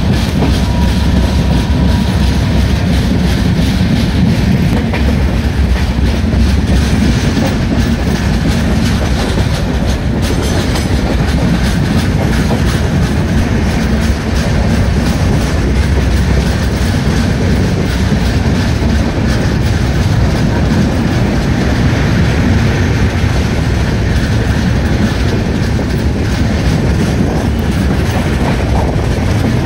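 Passenger train running along the track, heard from a window of the coach: a steady rumble and clatter of its wheels on the rails.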